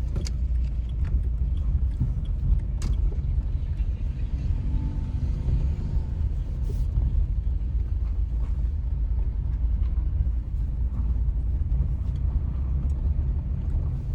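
Car running, heard from inside the cabin: a steady low rumble of engine and road noise with a few faint clicks.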